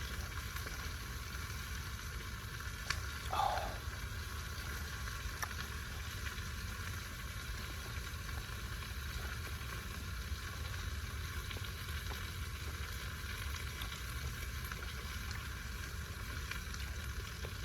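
Meat sizzling on a camp burner's grill, a steady hiss with a low steady rumble underneath. A brief faint sound comes about three seconds in.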